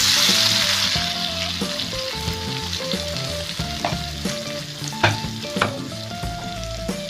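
Chopped shallots, chillies, tomatoes and garlic dropped into hot oil in a wok, sizzling loudly as they go in and then settling to a softer, steady sizzle, with a few sharp crackles along the way.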